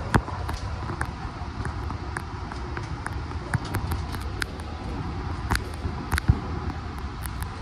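Long Island Rail Road commuter train running, heard from inside the car: a steady low rumble with many irregular sharp clicks and rattles.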